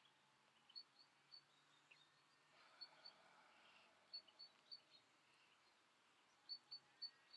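Near silence, broken by faint, short, high bird chirps that come in small groups of two to four every second or two.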